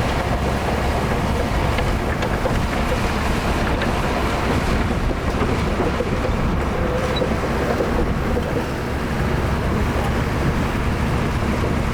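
Heavy diesel earthmoving machinery running steadily under load, a continuous low engine rumble with no breaks.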